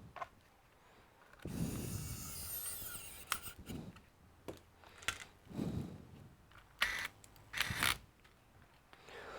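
Handling and working on laptop parts: a longer rasping stretch from about one and a half to three seconds in, then a series of separate clicks and knocks.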